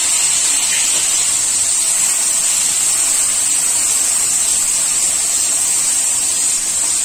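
Chopped tomatoes sizzling in hot mustard oil in a kadhai: a loud, steady hiss.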